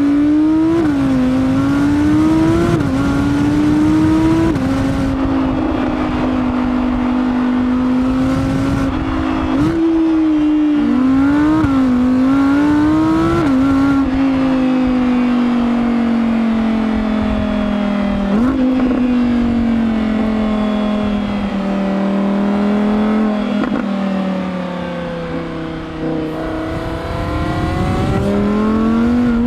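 2023 Audi R8 GT RWD's 5.2-litre naturally aspirated V10 pulling through the gears. Its pitch climbs and then drops sharply several times as the dual-clutch gearbox shifts up. After that the engine note sinks slowly as the car eases off, and it rises again near the end.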